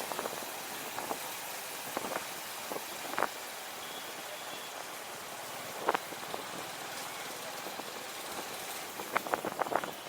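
Steady rushing wind and road noise from a ride on a motorcycle, with a few short, sharp knocks and clicks, the last of them bunched together near the end.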